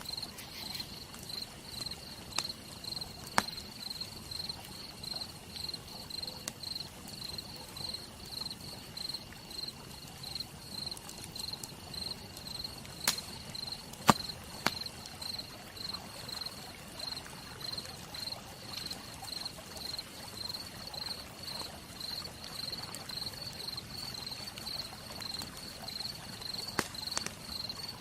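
Campfire crackling, with a few scattered sharp pops, the loudest about halfway through, over a steady hiss. A cricket chirps throughout in a fast, even rhythm.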